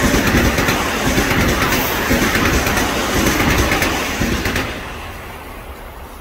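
Metro-North M8 electric multiple-unit commuter train passing through the station, steady wheel and rail noise from its last cars that fades away from about four and a half seconds in as the train clears.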